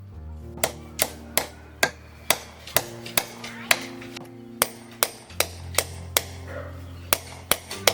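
A series of sharp knocks, about two a second with uneven spacing, like tool strikes, over soft sustained background music.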